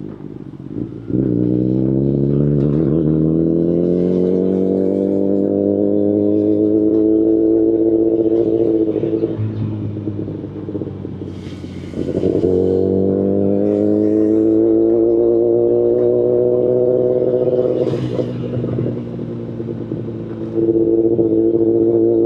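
Kawasaki Ninja ZX-10RR's inline-four running through an Akrapovic carbon full exhaust system: the engine pitch climbs under throttle about a second in and levels off, drops away when the throttle closes around nine seconds, climbs again from about twelve seconds, eases off near eighteen seconds, then runs steady near the end.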